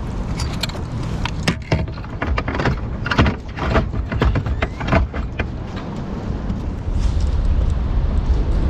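Fishing gear being handled, a quick run of clicks, knocks and rattles, over a steady low rumble that grows louder about seven seconds in.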